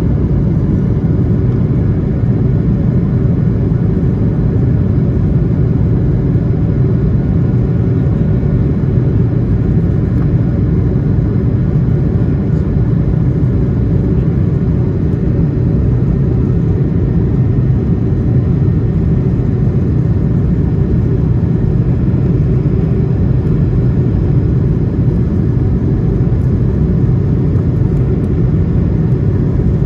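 Steady cabin noise inside an Airbus A220-300 under power: a deep, even rumble from its Pratt & Whitney PW1500G geared turbofans and the airflow, with faint steady whines above it.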